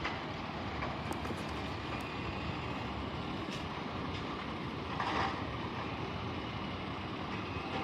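Garbage truck engine running steadily, with a brief louder noisy burst about five seconds in.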